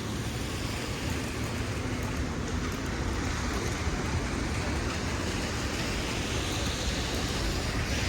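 Rainy city street ambience: a steady hiss of falling rain with the low rumble of passing traffic.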